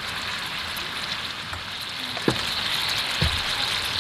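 Food frying in a pan with a steady sizzle, and two light knocks a little past the halfway point.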